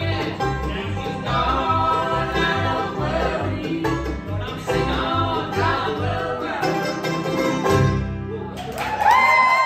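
Bluegrass band playing live: a banjo and guitar pick over steady bass notes, then the band stops and one long held high note rings out, sliding down at the end as the tune finishes.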